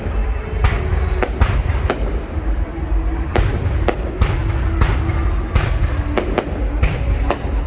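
Fireworks going off: sharp bangs at irregular spacing, a few each second, over a continuous low rumble of further bursts.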